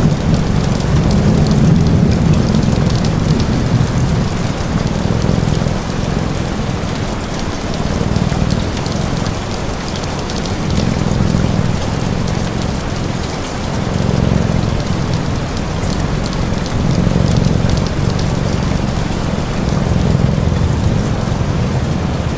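Steady rain pattering, mixed with a low rumbling purr from a cat that swells and dips every couple of seconds.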